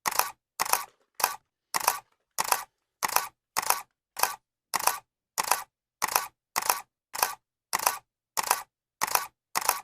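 Camera shutter clicking over and over at an even pace, a little over one and a half clicks a second. Each is a short, crisp double click.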